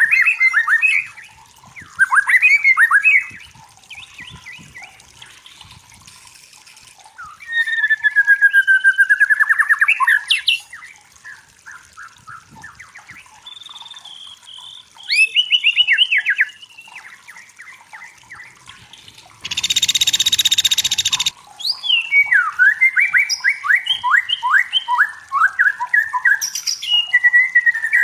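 White-rumped shama singing loud phrases of rapid repeated notes and whistled glides, separated by short pauses, with one harsh rasping call about twenty seconds in.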